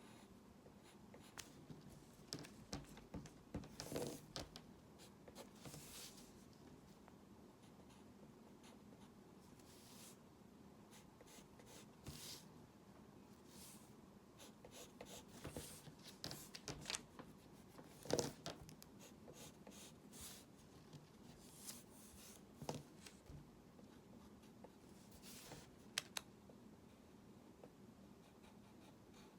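Faint, irregular scratching of drawing strokes, with scattered sharper taps, the loudest about eighteen seconds in.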